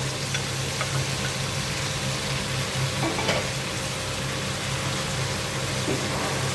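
A chicken, vegetable and tofu stir-fry sizzling in a hot pan, with a few light clicks over a steady low hum.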